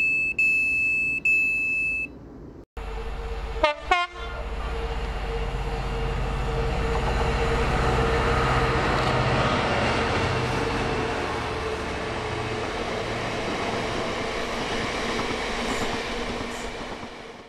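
Two loud electronic beeps, then after a brief cut a train passing through at speed. A short horn blast sounds near the start of the pass, then rumble and wheel noise with a steady hum swell to a peak around the middle and slowly fade before cutting off.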